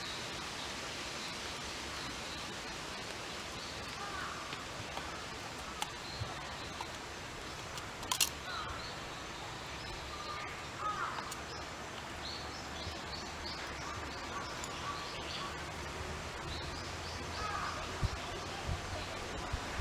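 Steady outdoor background hiss with scattered short bird chirps and a few sharp clicks, the loudest about eight seconds in.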